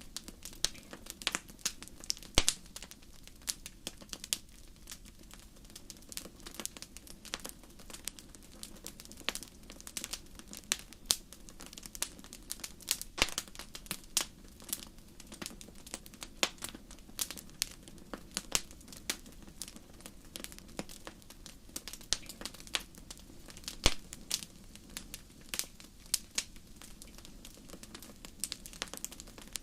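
Wood campfire crackling, with many irregular sharp pops and snaps, a few much louder than the rest, over a steady low rush.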